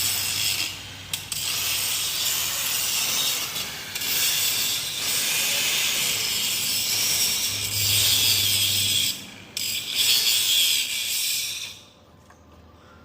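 Loud mechanical noise of tool work on a truck: a steady hissing, scraping noise over a low hum, with several brief breaks, cutting off shortly before the end.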